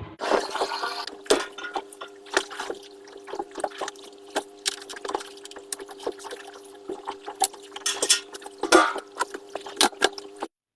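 Petrol being pumped into a boat's fuel tank with a fuel-transfer pump: a steady hum with many small splashes and ticks of liquid. It cuts off suddenly near the end.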